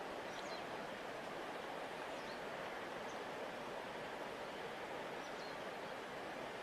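A large river flowing past its bank, a steady even rush of water. A few faint, short, high chirps are scattered over it.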